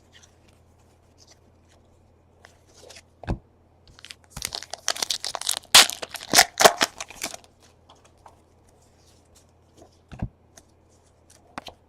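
A baseball card pack wrapper being torn open and crinkled: a burst of crackling for about three seconds in the middle, with a few isolated light clicks around it.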